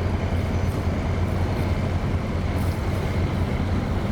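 Steady low rumble of a vehicle running, with no change in pitch or level.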